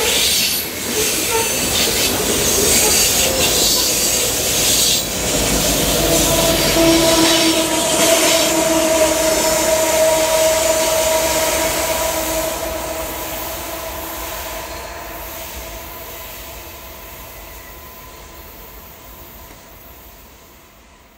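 Freight train passing close by: covered hopper cars rolling, then the two rear diesel locomotives (distributed power units) going by about five seconds in with a steady tone over the rumble. The sound then fades away steadily as the end of the train recedes.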